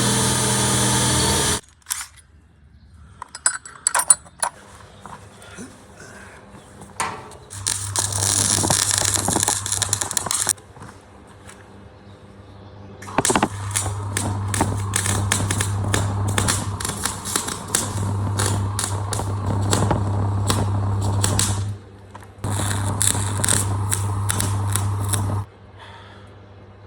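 MIG welder arc crackling and sizzling in three runs of a few seconds each, the longest about eight seconds, with a steady electrical hum under each run. A loud hiss cuts off about a second and a half in.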